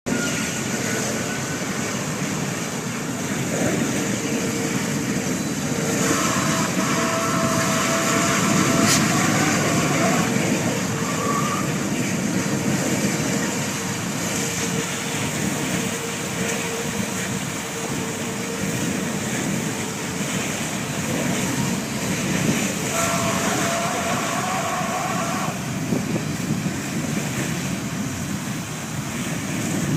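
Road and traffic noise from a moving vehicle, with a horn sounding two long flat blasts: one of about four seconds and a second of about three seconds later on.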